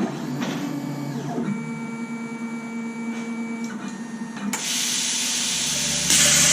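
Homebuilt CNC plasma table running: a steady mechanical whine with a few held tones as the machine moves. About four and a half seconds in, a loud, steady hiss starts, as of the plasma torch cutting sheet metal, and grows louder near the end.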